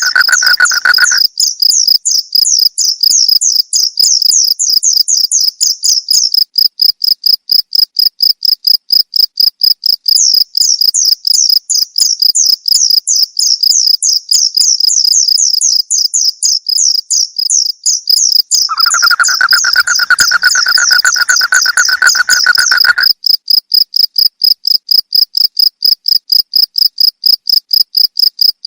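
Crickets chirping in a fast, even pulsing trill. A second, lower-pitched steady call sounds briefly at the very start and again for about four seconds past the middle.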